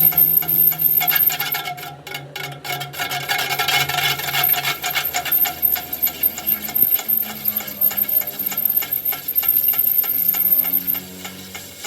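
Hand metalwork on a steel truck wheel rim: a rapid, irregular run of sharp knocks and scraping, with a thin, steady high whine that stops near the end.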